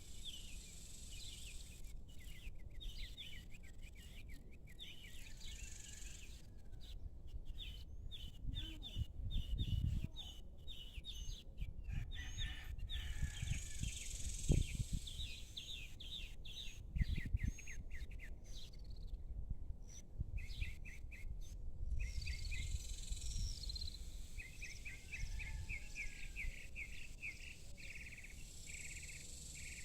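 Evening outdoor chorus: small birds chirping in quick runs of short, repeated notes, with a high insect hum swelling now and then. A low rumble swells a few times underneath.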